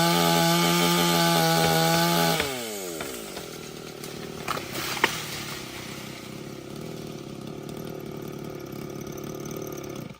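Chainsaw running at full throttle, then the revs fall away about two and a half seconds in and it settles to a low idle. Two sharp cracks sound around the middle.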